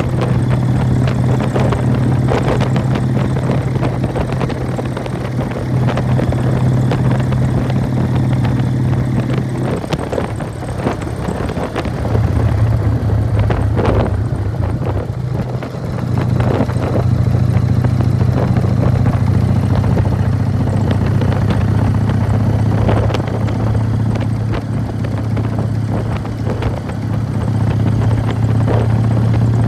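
1999 Harley-Davidson Fat Boy's Evolution V-twin running through Python mufflers while riding, with clatter from its open primary drive. The engine note eases off and dips about ten to sixteen seconds in, then picks back up and holds steady.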